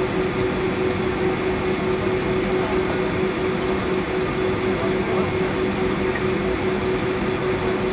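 Steady cabin noise inside a Boeing 757-300 airliner: the engines and air system run with a constant hum and rumble that does not rise or fall.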